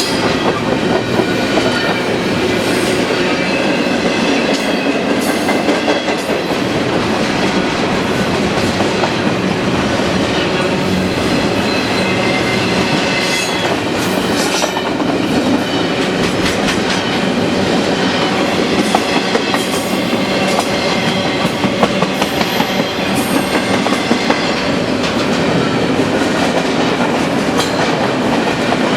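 A BNSF double-stack intermodal train's loaded well cars rolling past steadily, wheels clacking over the rail joints, with thin high wheel squeals running over the rumble.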